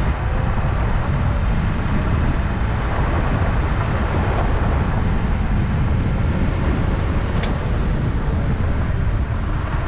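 Toyota 4Runner driving on a dirt trail: a steady rumble of engine, tyres and wind, with a single short click about seven and a half seconds in.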